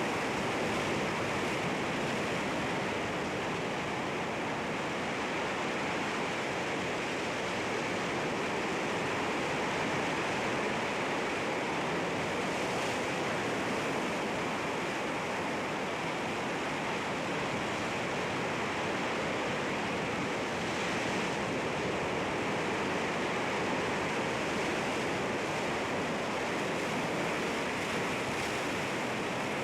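Sea waves washing against rocks: a steady, unbroken rush of surf.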